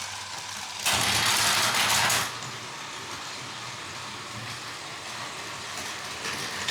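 Battery-powered Plarail toy train running along plastic track, a steady small-motor and gear whir. About a second in, a louder hiss sounds for roughly a second and a half.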